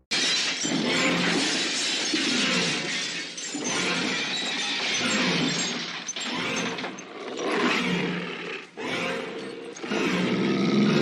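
Rabid Saint Bernard snarling and growling in vicious attack, rough and continuous, coming in repeated surges.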